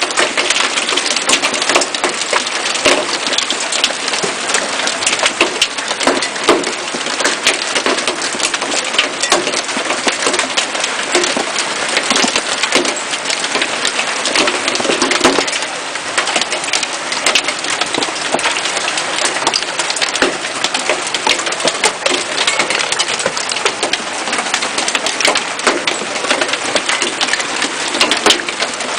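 Hailstorm: a dense, continuous clatter of hailstones striking hard surfaces, mixed with heavy rain.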